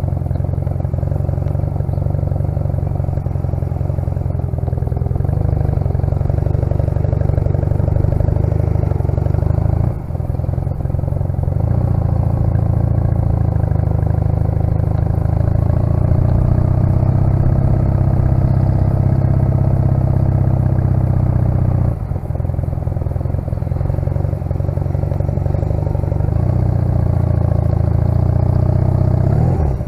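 1996 Honda CMX250C Rebel's air-cooled parallel-twin engine running at low speed. The sound dips briefly twice, about ten seconds in and again past twenty seconds, and rises in pitch near the end.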